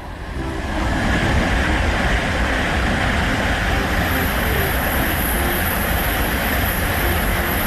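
Shinkansen bullet train passing at speed: a steady rushing noise of wind and wheels that builds within the first second and holds, with a thin high whine joining about halfway through.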